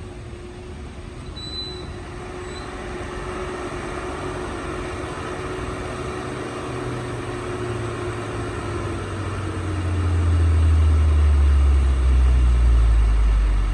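Heavy truck's diesel engine labouring on a steep uphill climb, a steady low drone that grows much louder about ten seconds in.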